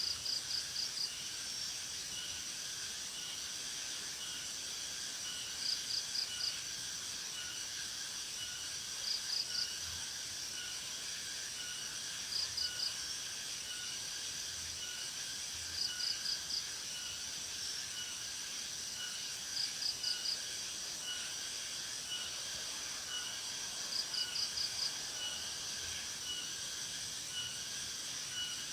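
Steady outdoor chorus of crickets and other insects. Over it a short burst of four or five quick high chirps repeats every three to four seconds.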